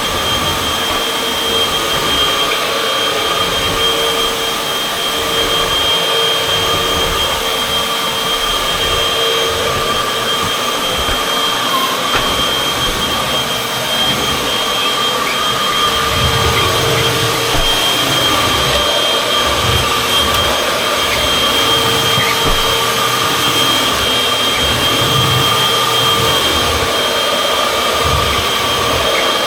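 Vacuum cleaner running continuously with a steady high motor whine. Irregular low rumbles and knocks come in about halfway through as it is pushed over the floor.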